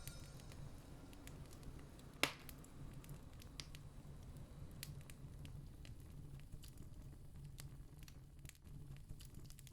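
Campfire wood crackling quietly with sparse small pops and one sharper pop about two seconds in, over a steady low rumble.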